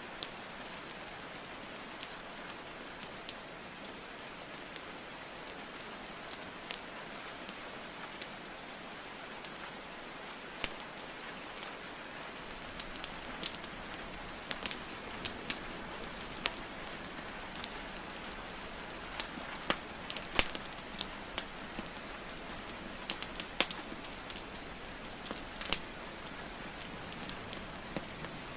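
Steady rain hiss with the crackle and sharp pops of burning wood logs in a fireplace. The pops are sparse at first and come more often and louder from about halfway through.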